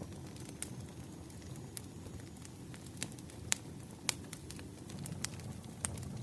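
Wood fire burning: a steady low rumble of flames with irregular sharp pops and crackles from the firewood, the loudest pops about three and a half and four seconds in.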